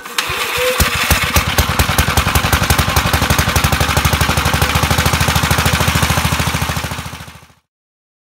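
Small single-cylinder engine of a 1968 Sears Suburban 12 garden tractor running in a quick, even train of firing pulses with slightly uneven peaks, then fading out and stopping about seven and a half seconds in.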